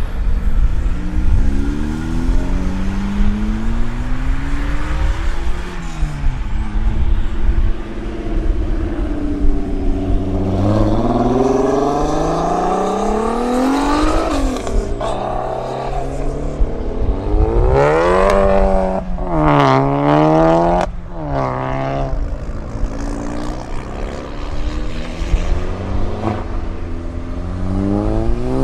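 Tuned car engines revving as the cars pull away, over a continuous low exhaust rumble. The revs climb slowly in the first half, then come as a quick series of sharp blips about two-thirds of the way through, with one more rev near the end.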